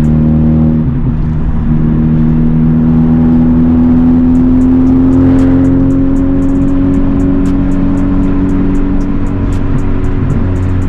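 Honda Civic Type R's turbocharged four-cylinder engine, with a catless downpipe and resonator delete, droning steadily under light throttle. Its pitch rises slowly over a few seconds, then holds.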